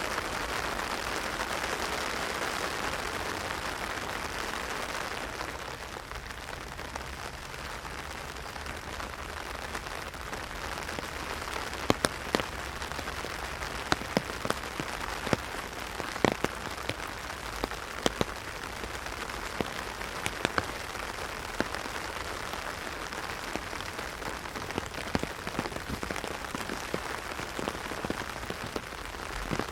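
Heavy rain pattering on an umbrella: a steady hiss of drops, easing a little after about five seconds, with scattered louder single taps from about twelve seconds in.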